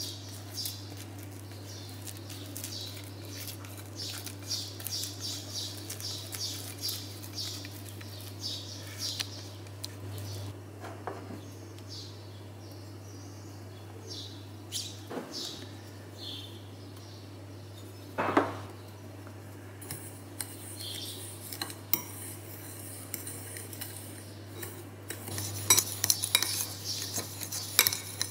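A utensil scraping thick chocolate batter out of a ceramic bowl in quick repeated strokes, then scattered clinks and one louder knock about 18 seconds in. Near the end a fork stirs sugar and cocoa powder in a ceramic bowl, scratching rapidly against it, all over a low steady hum.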